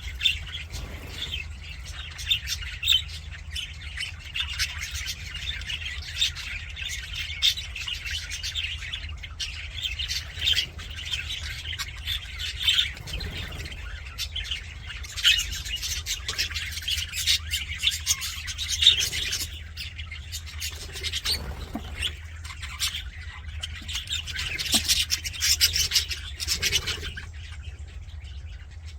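A group of budgerigars chattering without pause: rapid chirps and warbles with occasional squawks, busier around the middle and again near the end. A steady low hum runs underneath.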